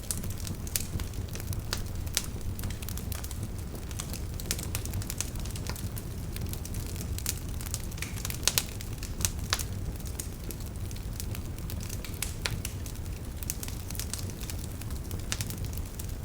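Wood fire burning in a fireplace, a steady low rumble of flames with irregular crackles and sharp pops, a couple of louder pops about halfway through.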